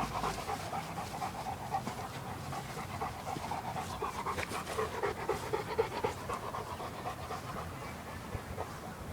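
A dog panting rapidly and rhythmically, out of breath from running after balls.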